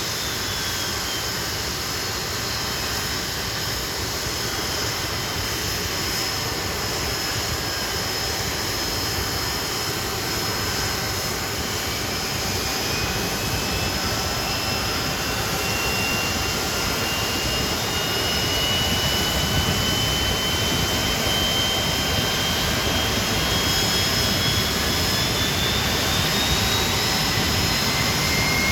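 Hawker Siddeley Nimrod's Rolls-Royce Spey turbofan engines running with a steady jet roar. Whining tones climb slowly in pitch, and the sound grows a little louder in the second half.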